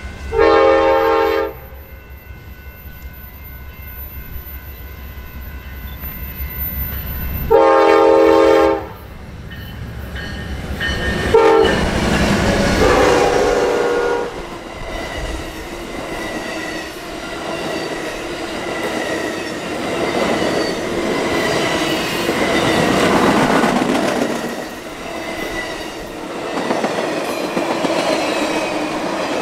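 Amtrak California Zephyr's GE Genesis locomotive sounding its air horn in the grade-crossing pattern: long, long, short, long. From the last blast on, the train passes close by, its Superliner and heavyweight passenger cars rumbling and wheels clicking over the rail joints.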